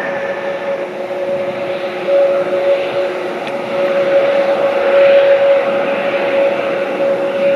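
Aircraft engines running with a steady whine over a rushing noise, growing louder about two seconds in and again around four seconds in.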